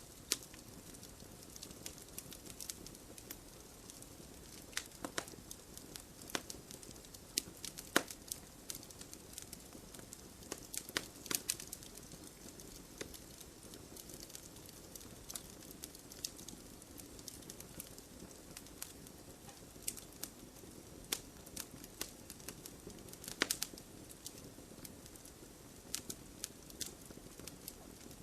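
Campfire burning: a steady low rush of flame with irregular crackles and sharp pops from the burning wood, a few louder pops scattered through.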